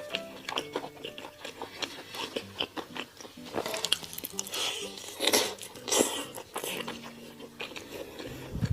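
Close-miked biting and chewing of crunchy food: irregular crisp crunches and wet mouth clicks, busiest in the middle few seconds.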